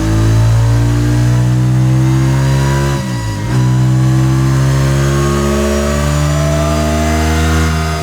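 Voge DS 625 X's parallel-twin engine running hard through a Scorpion stainless slip-on exhaust on a dyno, revs climbing steadily, with a brief drop in revs about three seconds in before climbing again.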